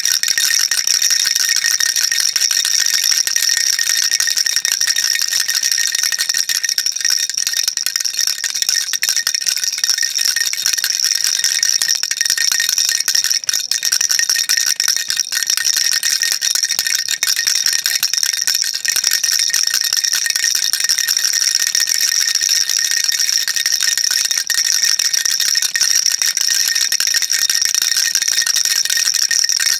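A baby rattle shaken continuously: a dense, unbroken, high-pitched rattling of small beads in a hollow toy, with no pauses.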